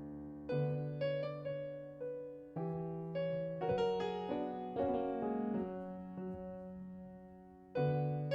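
Piano playing slow, gentle chords and melody notes, each struck and left to fade, with a fresh chord about three-quarters of the way through.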